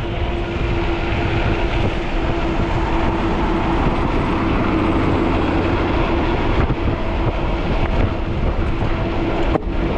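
Strong wind buffeting the microphone on a moving electric fat-tire bike, with a steady rumble and one steady humming tone from the bike's motor and tyres underneath.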